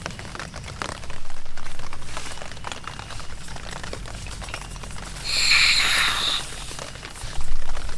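Rain pattering in many small drops. A low rumbling swell comes about a second in and lasts a second or so, a short hissing rush comes about five seconds in, and a brief loud low thump comes near the end.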